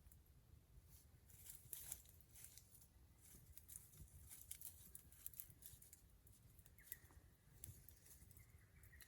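Wood campfire crackling faintly, with irregular small pops and snaps, and a faint thin whistle starting about seven seconds in.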